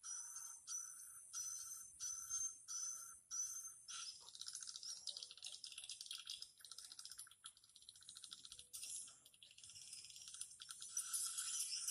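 Swiftlet calls: six short, slightly rising buzzy chirps about 0.6 s apart, then from about four seconds in a dense, rapid clicking twitter.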